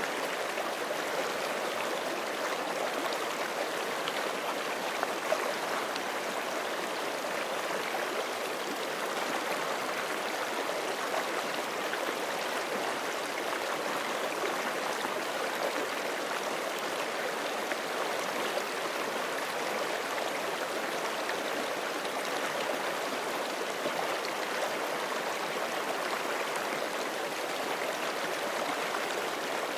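Forest creek flowing steadily, water rushing and gurgling over stones.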